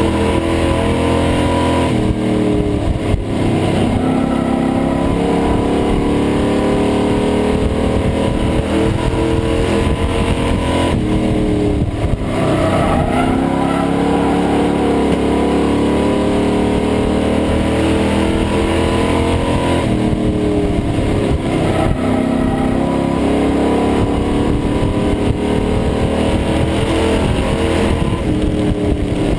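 Race truck's engine heard from inside the cab at racing speed, its pitch dropping as the driver lifts and then climbing again under hard acceleration, about three times. Loud throughout.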